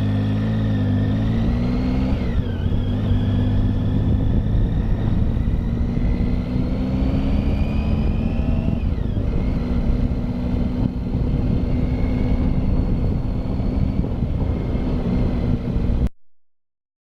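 Triumph Tiger motorcycle engine running at cruising speed under wind rush, its note dipping and picking up again twice, around the 2-second and 9-second marks. The sound cuts off suddenly about a second before the end.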